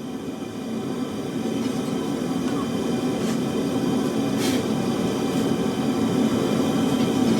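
A steady mechanical roar, like machinery or a burner running, that grows louder over the first few seconds, with a couple of faint ticks.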